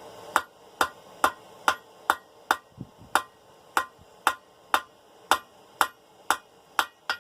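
Hand hammer striking hot steel bar on an anvil in a steady rhythm of about two blows a second, each with a short metallic ring, drawing out a tapered point on half-inch round bar.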